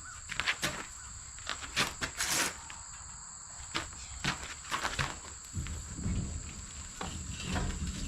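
Scattered light clicks, knocks and brief rustles over a steady high-pitched insect drone.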